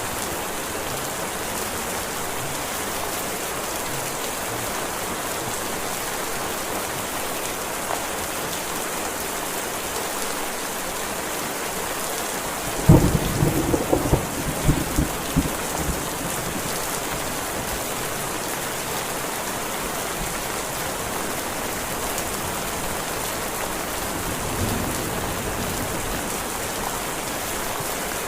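Heavy rain falling in a steady hiss. About halfway through, a sudden loud clap of thunder rumbles on in several peaks for about three seconds.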